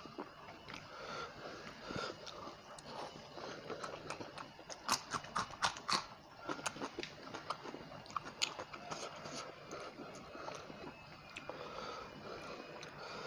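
Close-up chewing and crunching of a mouthful of fried rohu fish with rice, with wet mouth clicks throughout and a run of loud, sharp crunches midway through.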